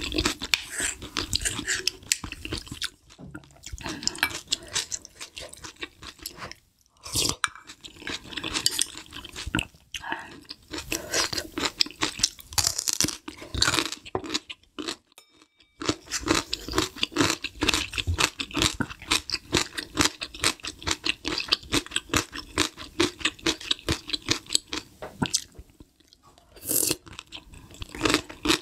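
Close-miked chewing of food, with rapid continuous crunching broken by a few brief pauses.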